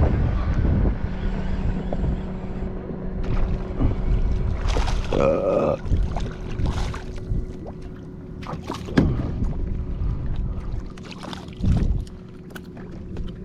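Fishing kayak on open water with wind buffeting the microphone, scattered knocks against the hull and gear, and a steady low hum underneath. A louder, briefly pitched sound comes about five seconds in.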